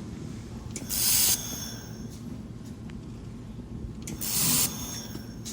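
Handheld laser welder firing two short spot welds about three seconds apart, each a half-second hiss, over a steady machine hum.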